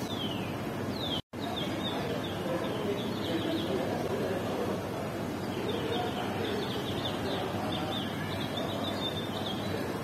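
Steady background noise with short, high, falling bird chirps, several in quick runs. The sound cuts out completely for an instant a little over a second in.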